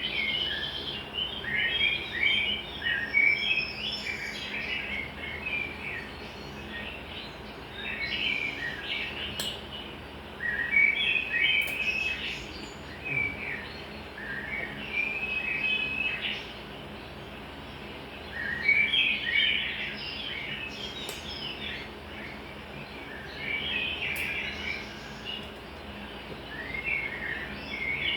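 Songbirds chirping in repeated bursts of quick notes a few seconds long, with short pauses between, over a faint steady hum; a few faint sharp clicks.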